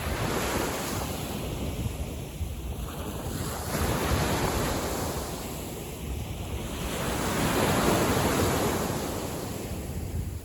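Small waves washing in on a calm sea, swelling and easing about three times, with wind rumbling on the microphone.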